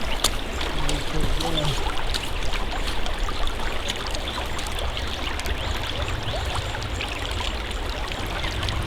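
Creek water flowing: a steady rush of water noise, with scattered faint clicks.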